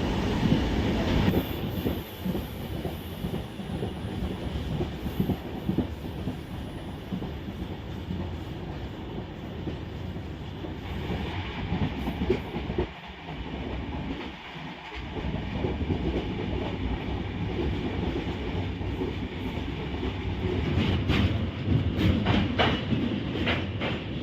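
Passenger train running, heard from inside the coach: a steady rumble of wheels on the track, with a few sharp clacks near the end.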